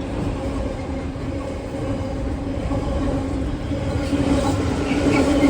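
Double-headed pair of Class 66 diesel freight locomotives, two-stroke V12 engines, approaching with a steady drone and low rumble that grows gradually louder, a few light clicks from the wheels on the track near the end.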